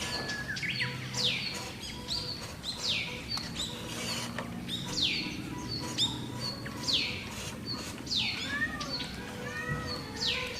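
A bird calling repeatedly: a sharp, falling call about once a second, with some shorter arched chirps from a second bird or call type near the end.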